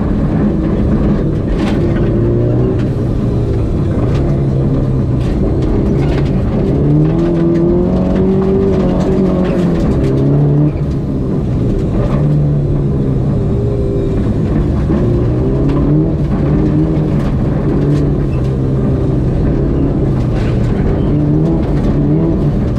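Mazda 323 GTR's turbocharged four-cylinder rally engine heard from inside the cabin, driven hard on gravel: the engine note rises and falls again and again as it revs up through the gears and back off, with scattered sharp clicks.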